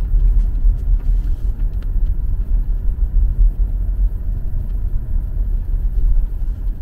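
Steady low rumble inside a moving car's cabin: road and engine noise while driving.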